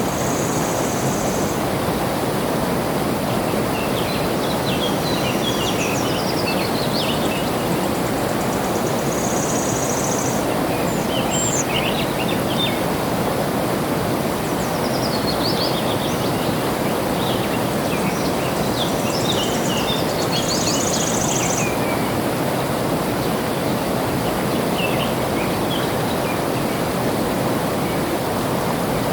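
Steady rushing of flowing water, with small birds chirping over it in scattered clusters. A short, high, even buzz comes three times, about ten seconds apart.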